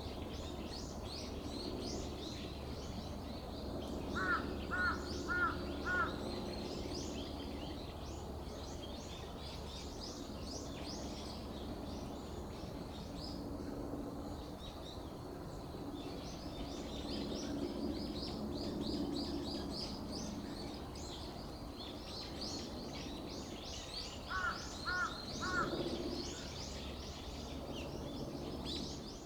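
Birds chirping all through. Twice, a louder bird gives four calls in a row, about four seconds in and again near the end.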